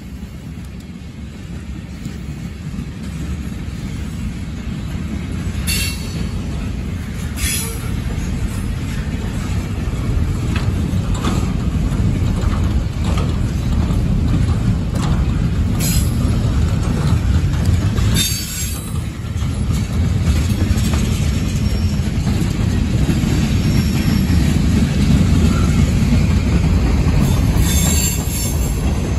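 Freight train cars rolling past: a steady low rumble of steel wheels on rail that grows louder, with several brief high wheel squeals.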